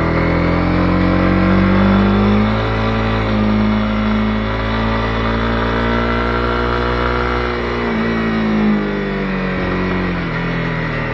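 Honda CB250R's single-cylinder engine pulling under way, its note climbing over the first two seconds, holding steady, then dropping back as the throttle eases about eight seconds in.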